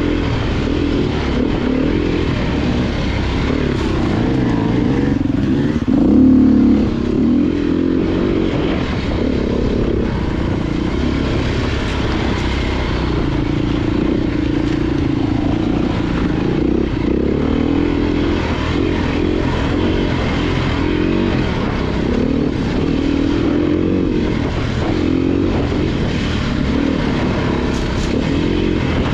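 Off-road motorcycle engine running under constantly changing throttle, its pitch rising and falling, with a brief louder rev about six seconds in.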